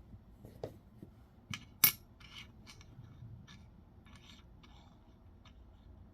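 Coins being handled on a hard surface: a few small clicks, one sharp click about two seconds in, then light scraping and rustling.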